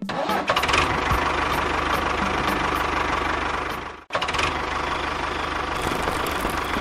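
A small motor running steadily with a fast mechanical rattle and a steady whine. It cuts out abruptly about four seconds in and starts again straight away.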